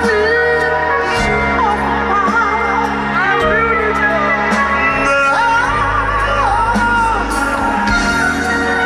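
Live band playing: steady bass and drums with cymbal hits, and a wavering, bending melodic lead line over them.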